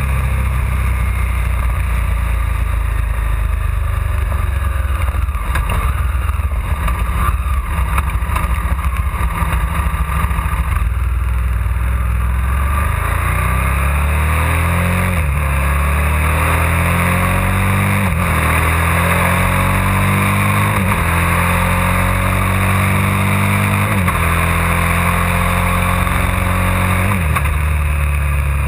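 KTM 990 SMR supermoto's 999 cc V-twin engine running under way, its note irregular at first, then rising and dropping sharply about every three seconds in the second half as the rider accelerates and shifts up through the gears. Steady wind rush over the bike-mounted camera runs underneath.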